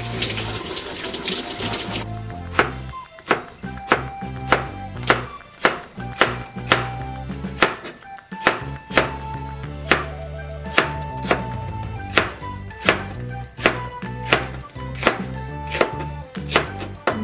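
Tap water running briefly at a sink, then a kitchen knife slicing a green chili pepper into rings on a plastic cutting board, a crisp cut about two to three times a second with a short pause midway. Background music plays under it.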